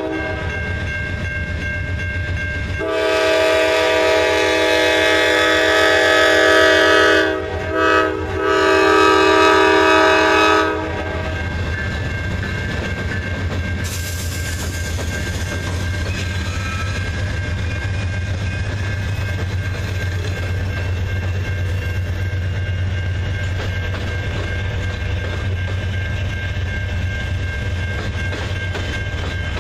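Diesel freight locomotive's multi-chime air horn sounding a long blast, a short toot and another long blast over the low rumble of the approaching train. Then the locomotive passes and freight cars roll by with a steady rumble and wheel noise.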